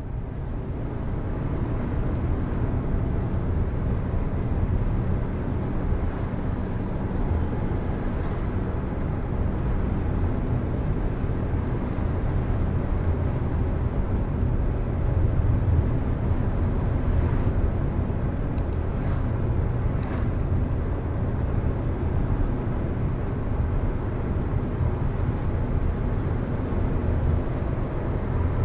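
A car driving at a steady pace, its engine and tyre road noise making a constant low rumble, with a few faint clicks about two-thirds of the way through.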